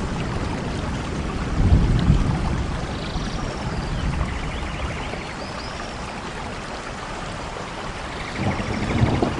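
Steady rain with low rumbles of thunder, one swelling about two seconds in and another near the end, and a few faint high chirps now and then.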